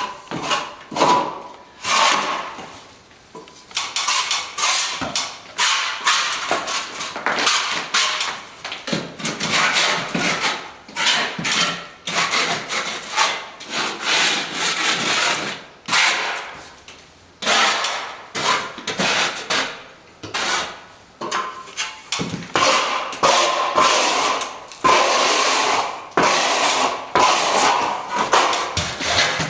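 A hand tool scraping and rubbing across a plaster wall in quick repeated strokes, some with a faint squeak.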